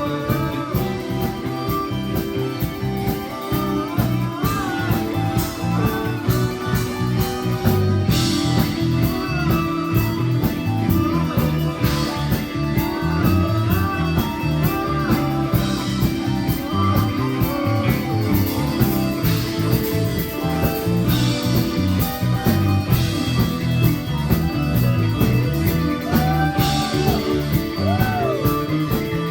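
Live rock band playing an instrumental passage: guitar lines with bending notes over bass and drums, with a cymbal crash about every four seconds.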